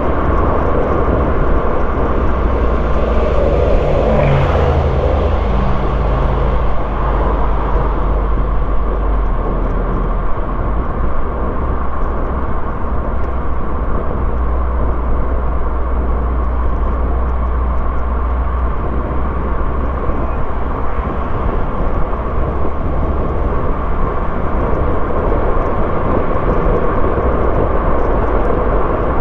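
Car driving along the road: a steady low engine and tyre-on-road rumble. An added engine tone comes in about three seconds in and fades by about ten seconds, with a brief louder swish around four seconds in.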